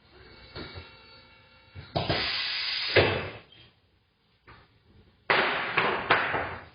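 Compressed air hissing out of tyre-changing equipment in two bursts: one of about a second, then a longer one near the end, with a few light knocks before them.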